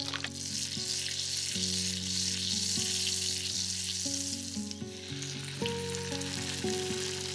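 Food sizzling as it fries in hot oil in a pan, loudest for the first four seconds or so and then settling to a softer sizzle. Soft background music with held notes plays underneath.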